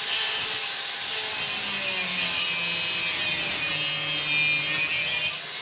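A tool cutting steadily for about five seconds, then stopping just before the end.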